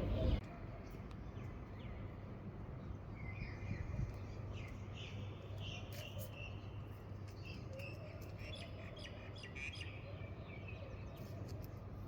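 Small birds chirping and singing, with short high chirps scattered throughout over a steady low background hum.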